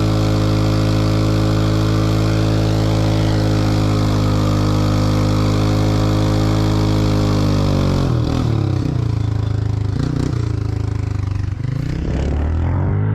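Small off-road vehicle engine running loud and close at a steady, even note. About eight seconds in, the pitch starts dropping and rising again and again as the throttle is let off and opened.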